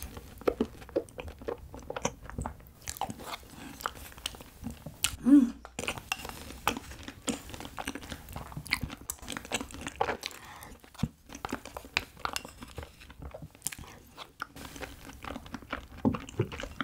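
Close-miked chewing and biting of rice cake with ice cream: a dense, irregular run of wet mouth clicks and smacks, with a brief hum about five seconds in.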